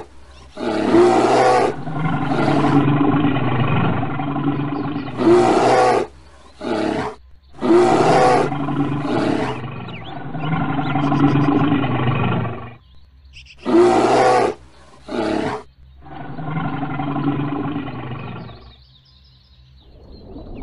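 Bear roars and growls, about nine in a row, each from half a second to three seconds long with short gaps between; they die away near the end.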